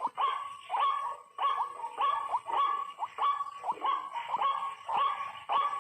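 White-breasted waterhen (ruak-ruak) calls repeated over and over, about two short, falling, bark-like notes a second.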